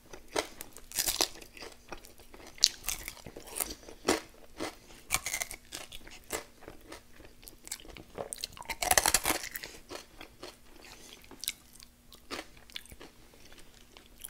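Close-miked chewing and crunching of crispy fried chicken wings coated in a peanut butter and jam sauce: irregular crackly bites, loudest about nine seconds in.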